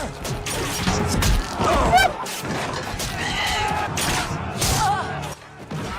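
Violent fight scene from a TV drama soundtrack: repeated sharp impacts and crashes with short cries over music.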